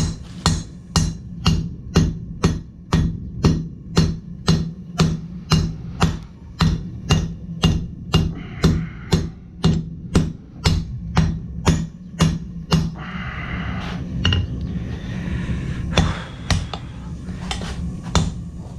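Blacksmith's hand hammer striking hot steel on an anvil in a steady rhythm of about two blows a second. The blows thin out about thirteen seconds in, leaving a few lighter taps.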